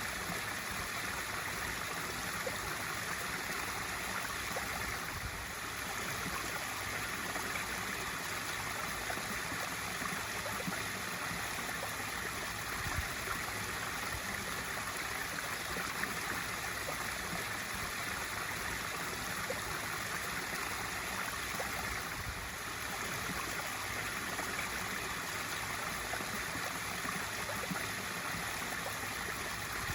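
Swimming pool waterfall feature splashing steadily into the pool: a constant water rush.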